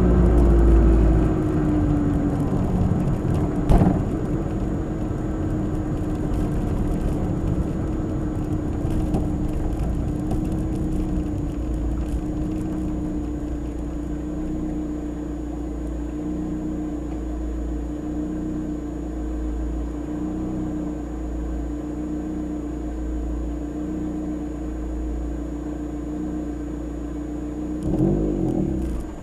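Nissan March (Micra) K12 12SR's 1.2-litre four-cylinder engine and Kakimoto aftermarket exhaust heard from inside the cabin: revs ease off over the first couple of seconds, then the car cruises at steady revs with a constant low drone. There is a single knock about four seconds in, and the revs rise near the end.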